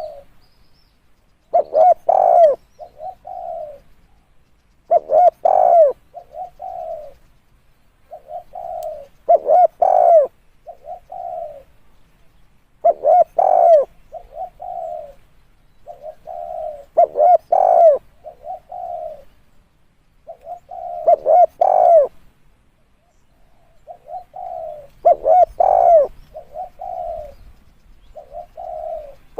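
Spotted dove cooing, repeating its short phrase of several coos with one loud arched note about every four seconds, eight times over.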